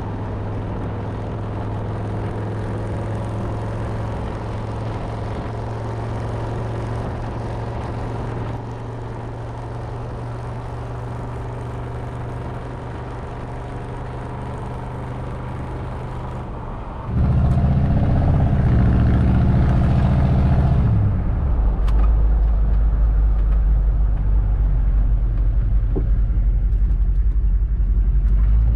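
Squarebody Suburban truck's engine running steadily on the road; about 17 seconds in it turns suddenly louder, with a deep low drone.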